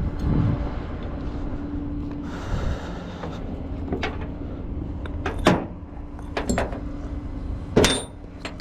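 Sharp metallic clanks and knocks of tow hooks and chains being handled, several of them in the second half, over the steady hum of an idling tow truck.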